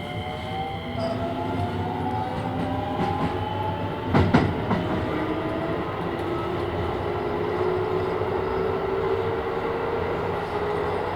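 Keisei 3000 series electric train's Toyo IGBT-VVVF inverter and traction motors whining, rising in pitch as the train gathers speed, heard from inside the car over the running rumble. About four seconds in, a short cluster of wheel knocks over rail joints comes through, and the whine drops to a lower tone that climbs slowly again.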